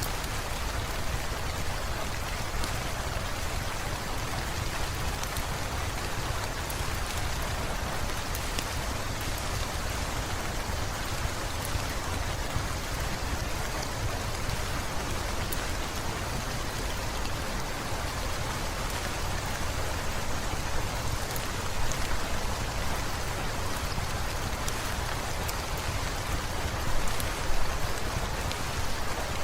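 Heavy rain falling steadily, a dense even hiss with a low rumble underneath, with scattered small crackles from a wood fire. The rain swells louder a few times near the end.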